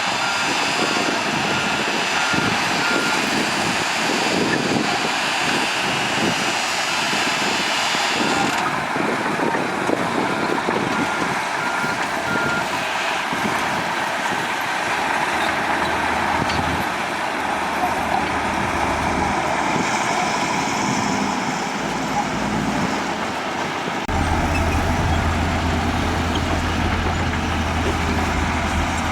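Heavy diesel earthmoving machinery running, with a reversing alarm beeping about twice a second, once at the start and again around ten seconds in. About two thirds of the way through, a deeper low rumble comes in.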